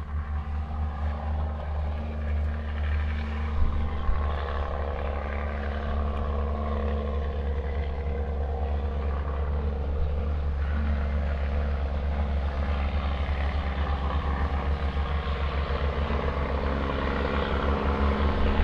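Heavy diesel truck engine running steadily: a low drone with a fast, even pulse.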